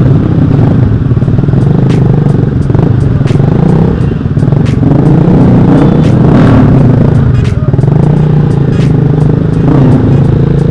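Motorcycle with a loud aftermarket exhaust running at low revs, a steady low throb, with a slight lift in pitch a little past the middle.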